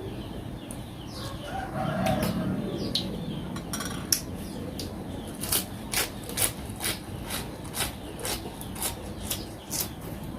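Close-up eating noises: a run of sharp, wet clicks and smacks, about two a second, while chewing and sucking soy-pickled raw crab.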